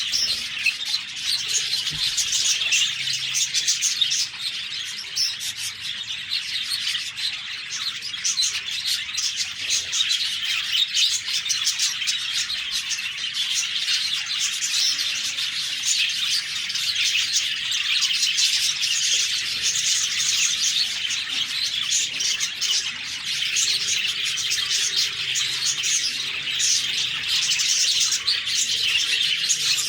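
A flock of budgerigars chirping and chattering continuously, many overlapping high calls.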